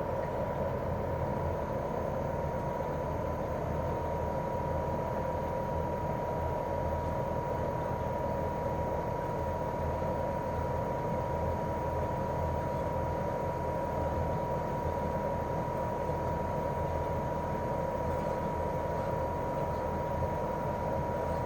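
Daikin R28RMV mini-split outdoor unit running in cooling, its inverter-driven twin-cylinder swing compressor and propeller fan making a steady hum and rushing noise. A thin whine rises slightly in pitch over the first few seconds, then holds steady.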